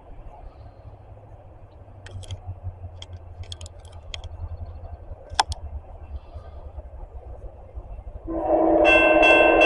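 Low rumble of an approaching CSX train with a few sharp clicks, then about eight seconds in the locomotive's air horn sounds loudly, several notes at once in a chord, and holds.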